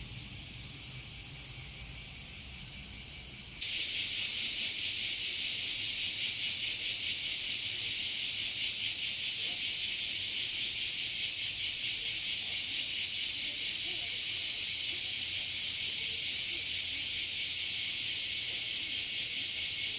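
Chorus of many cicadas singing together: a dense, steady, high buzzing hiss with a fast fine pulsing. It jumps suddenly louder a few seconds in and then holds.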